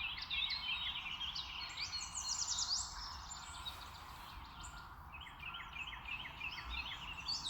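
Several small birds chirping and twittering in quick repeated notes, over a faint low background hum.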